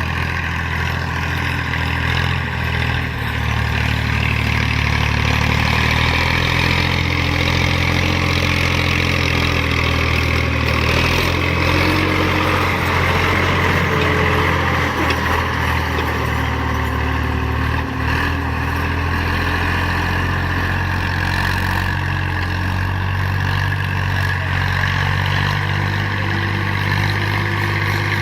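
Farm tractor engine running steadily under load while pulling a plough through a field.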